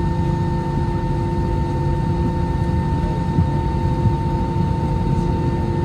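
Airbus A321-231's IAE V2500 engine idling on the ground after start: a steady low rumble with several constant whining tones.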